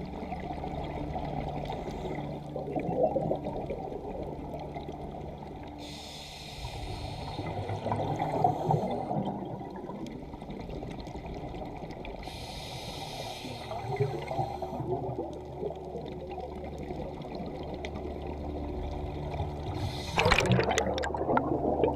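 Underwater recording of a scuba diver breathing through a regulator: exhaled air bubbles out in bursts about every six or seven seconds, with the loudest bubbling rush near the end.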